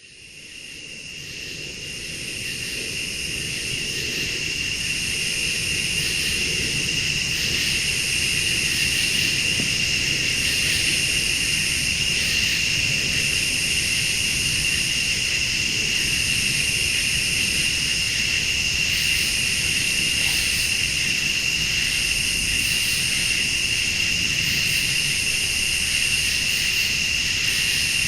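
Night chorus of crickets and late-summer insects: a steady high trill, with a higher insect call pulsing about every second and a half to two seconds, over a low rumble. It fades in over the first few seconds.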